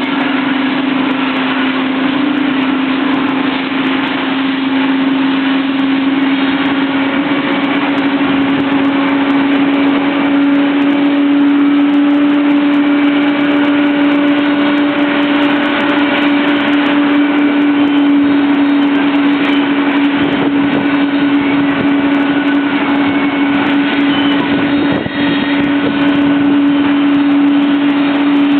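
Boeing 777-200 jet engine running during engine start: a steady drone with a strong hum that edges slightly higher in pitch while the whole sound grows a little louder, under a wide rushing hiss.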